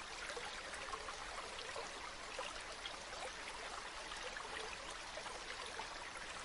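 Waterfall splashing and gurgling in a steady, dense rush with many small splashes over it.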